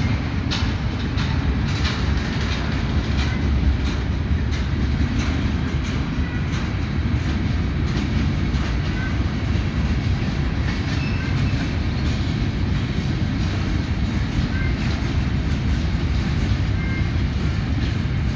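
Freight train wagons rolling past on the track: a steady low rumble with frequent clicks of the wheels over rail joints.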